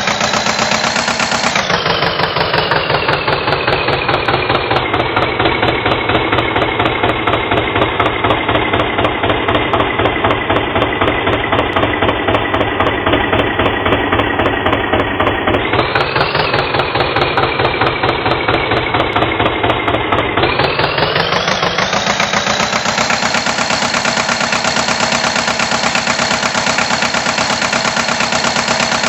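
Tractor engine running with a steady pulsing beat, speeding up briefly near the start and again about halfway, then revving up about two thirds of the way in and holding a higher speed.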